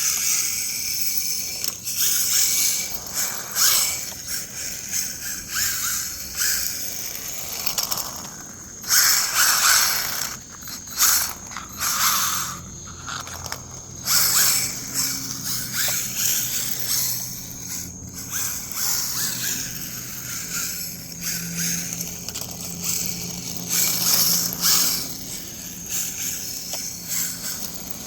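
Electric RC rally car driving and drifting on concrete: the motor and gears whine as the throttle comes and goes, with repeated surges of tyre scrub as the spinning tyres slide.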